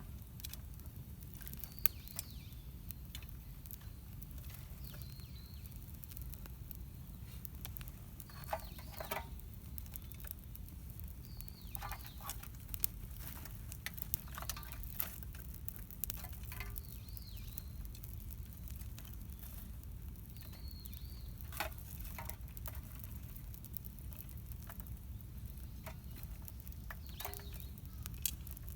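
Wood campfire crackling: scattered irregular pops and snaps over a low steady rumble.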